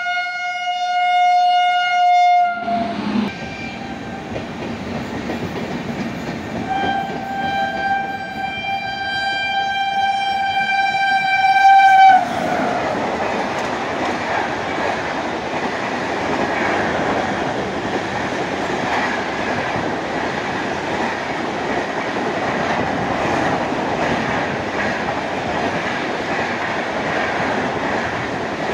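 An Indian Railways train sounding its horn: one steady note for about two seconds, then again for about five seconds from roughly seven seconds in. The train then passes, a steady loud rush of running noise with wheel clatter on the rails.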